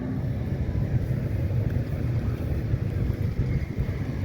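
A steady low rumble, uneven in level, with no distinct events.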